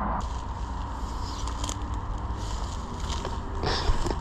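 Footsteps crunching and scuffing on rough ground while walking, over a steady low rumble. A louder rustling noise comes in near the end.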